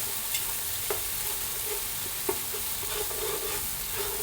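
Green curry paste sizzling as it fries in hot oil in a pan, a steady hiss. It is stirred, with a few sharp clicks of the utensil against the pan.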